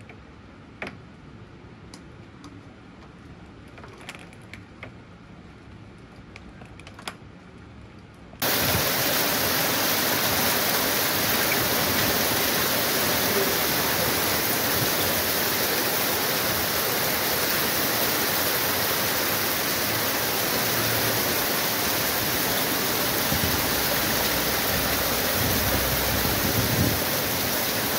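Faint rain with a few light, sharp taps, then about eight seconds in an abrupt cut to a loud, steady downpour of heavy storm rain.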